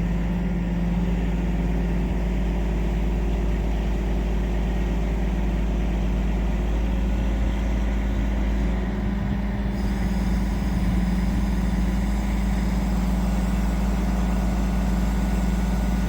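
Crane's diesel engine running steadily with a constant low hum while it hoists a heavy building on a second lift attempt.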